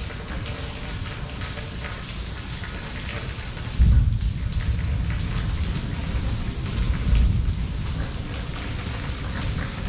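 Steady rain falling, with individual drops ticking on surfaces. About four seconds in, a low rumble of thunder sets in suddenly and rolls on, swelling again a few seconds later.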